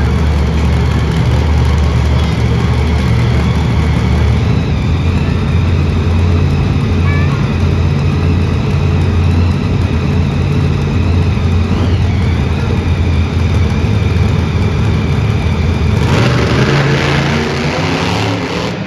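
Monster truck engine running loud and revving in an indoor arena, its pitch rising and falling. About sixteen seconds in, a louder rush of noise lasts a couple of seconds.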